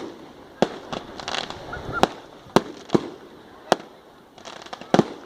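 Fireworks going off: a string of sharp bangs at uneven intervals, with dense crackling bursts about a second in and again near the end.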